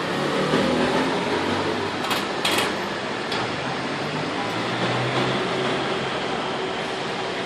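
Steady hum of city traffic, with two short hisses a little after two seconds in.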